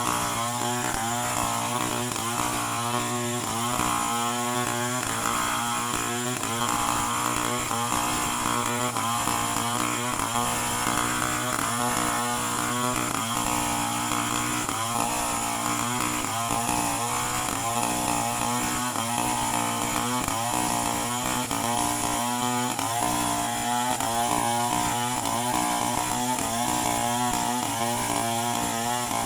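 Two-stroke chainsaw running continuously, its engine pitch wavering up and down slightly.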